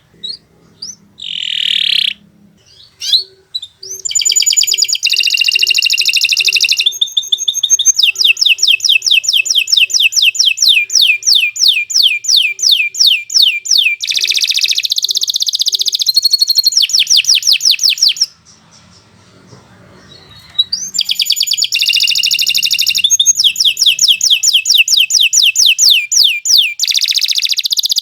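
Domestic canary singing a long, fast song: rapid trills of repeated falling whistled notes alternating with buzzy rolls. The song breaks off for about two seconds about two-thirds of the way through, then resumes.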